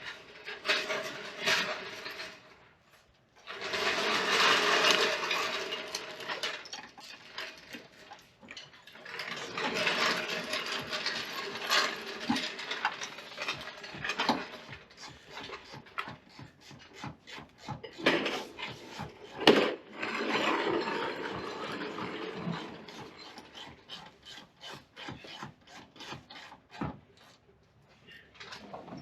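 Rough scraping and rubbing in long stretches, broken by scattered knocks and clicks, with two short pauses early on.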